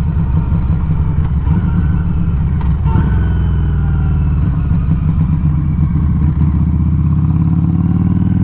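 Exhaust of a 2019 Harley-Davidson Street 500's V-twin running under way, heard close up at a Firebrand Loose Cannon slip-on muffler. The note is steady and loud, with a brief change in the engine's pitch about three seconds in.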